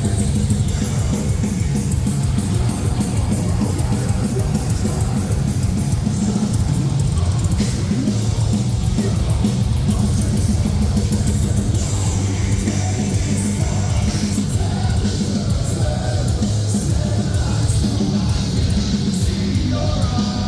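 Metalcore band playing live at full volume: distorted guitars, bass and pounding drums, heavy in the low end.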